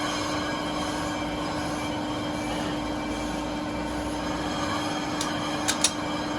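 Workshop machinery running steadily with a constant hum and high whine. A few sharp metallic clinks come near the end.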